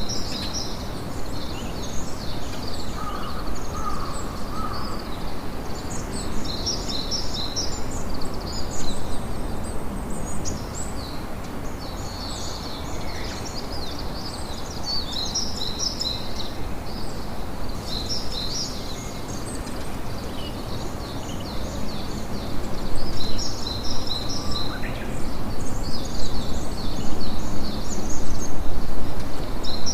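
Birds chirping in quick runs of high calls over the steady crackle of a campfire, a little louder near the end.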